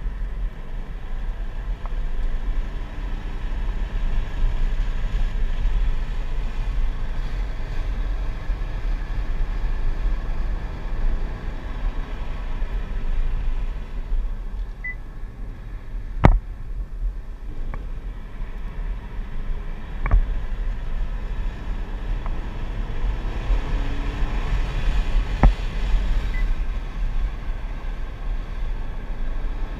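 Chevrolet Corvette C7 V8 running at track speed, heard from inside the cabin as a steady low rumble mixed with road and wind noise. A few sharp knocks stand out about halfway through and again near the end.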